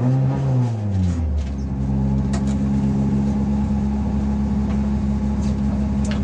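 Renault Clio rally car's engine heard from inside the cabin: a brief rev that rises and falls in the first second or so, then a steady idle. A couple of faint clicks sound over it.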